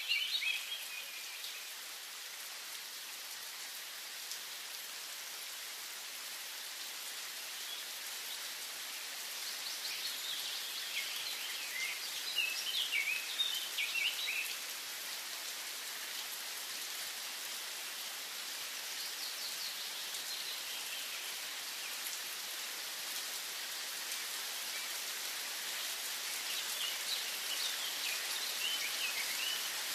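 Birds singing in short chirping phrases at the start, around the middle and near the end, over a steady hiss.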